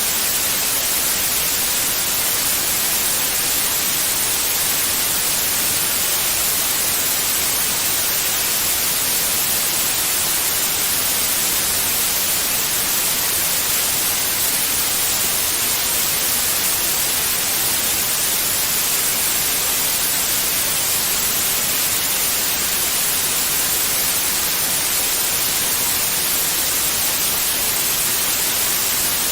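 Steady white noise: an even, unbroken hiss with no change in level, strongest in the high frequencies.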